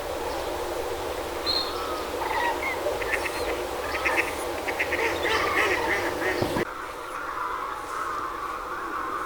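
Waterfowl calling over the steady rush of water through a pond sluice: scattered quacks and honks, then, after an abrupt change about six and a half seconds in, a flock of geese honking continuously.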